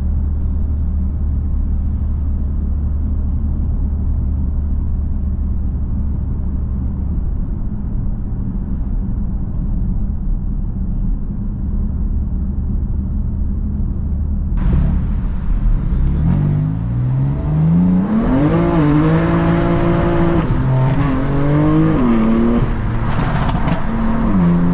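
BMW M3 F80's twin-turbo inline-six engine running at a low, steady drone, then about fifteen seconds in it is given throttle: the revs climb and then rise and fall several times as the car is driven hard.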